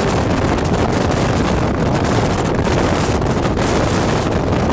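Steady rush of wind buffeting the microphone over the running noise of a moving passenger train, heard at an open coach window or door.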